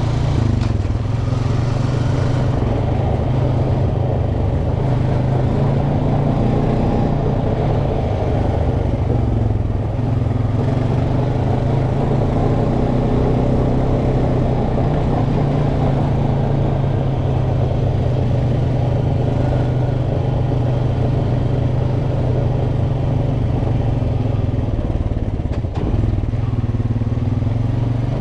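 Off-road vehicle engine running steadily at low, even speed while riding a dirt trail.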